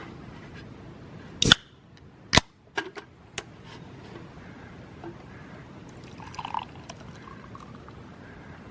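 Two loud sharp clicks about a second apart, then a few lighter taps, and later a short spell of liquid being poured.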